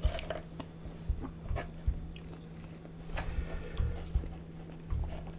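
Close-miked chewing and biting: a person eating fast food, with irregular mouth clicks and low thumps over a steady low hum.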